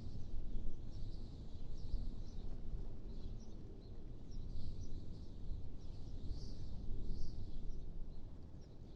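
Wind blowing in gusts, a low even noise that swells and eases, with small birds chirping faintly and often above it.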